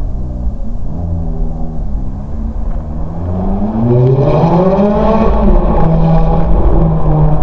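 Ferrari F430 Spider's 4.3-litre V8 through its stock exhaust, running at low revs, then revving up about three seconds in. The pitch peaks around five seconds, dips slightly, and holds steady at the higher pitch.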